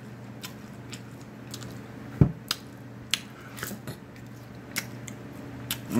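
Close-miked mouth sounds of chewing a mouthful of egg roll: a scattered run of short wet clicks and lip smacks, with a sharper click about two seconds in.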